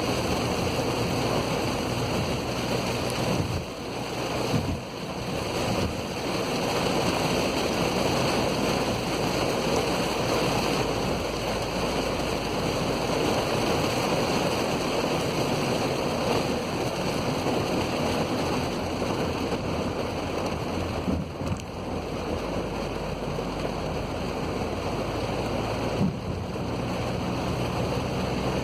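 Steady rushing of heavy rain and tyres on a wet road, heard from inside a moving car's cabin, with a low engine hum underneath and a brief knock near the end.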